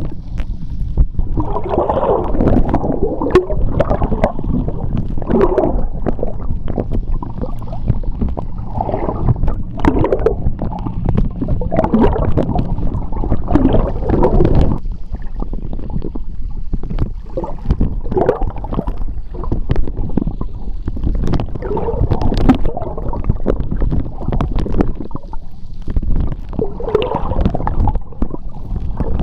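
Seawater heard underwater: a steady low rumbling surge of moving water with bubbly gurgling that swells every second or two, and scattered sharp clicks throughout.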